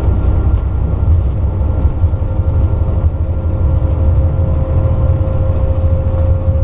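Airbus A330 accelerating down the runway at takeoff thrust, heard from the flight deck: a steady heavy rumble from the engines and the rolling gear, with a thin steady whine above it.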